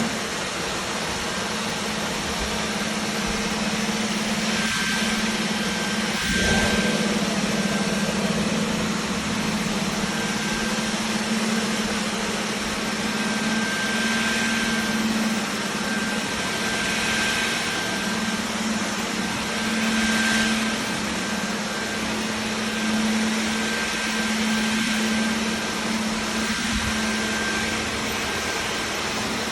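Dyson Gen5outsize cordless vacuum cleaner running steadily, a motor hum with a thin high whine and airy hiss that swells and eases every few seconds.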